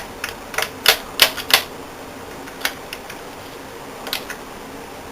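A series of sharp, irregular clicks, several close together in the first second and a half, then a few more spaced out.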